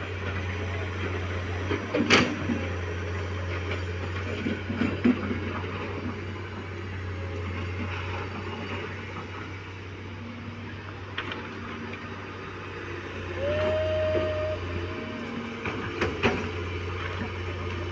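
Engine running with a steady low hum, with a sharp knock about two seconds in and another near the end, and a short steady tone a little before it.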